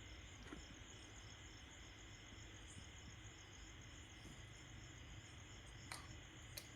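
Near silence: a faint steady high-pitched hiss, with a few soft clicks near the end.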